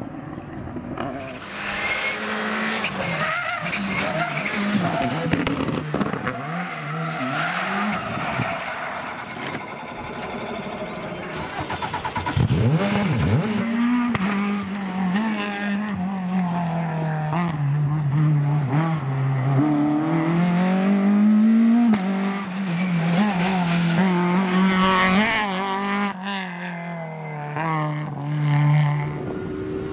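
Rally car engine revving hard, its pitch repeatedly climbing and dropping through gear changes as it drives a stage, with tyre noise.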